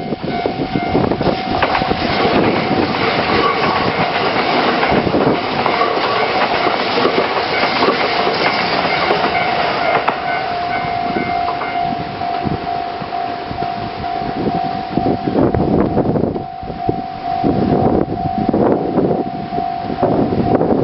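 A train of KiHa 48 diesel railcars passing slowly over a river bridge, its wheels clattering over the rail joints, with a steady high-pitched tone running under the clatter.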